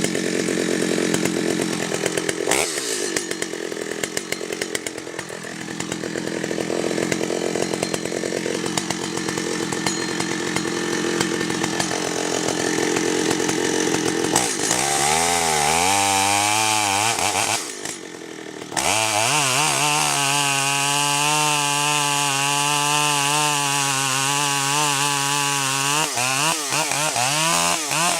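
Chainsaw running hard, its engine pitch climbing about halfway through. After a brief drop near the middle it holds a steady high-revving note.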